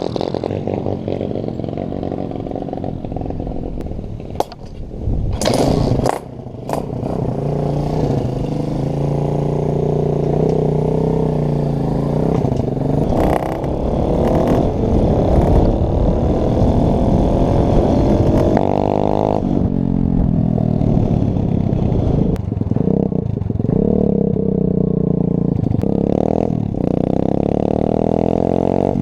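Small pit bike engine running under load, its pitch rising and falling as the rider accelerates and changes gear, through a homemade steel-wool silencer. A few sharp bursts cut across it about five to seven seconds in.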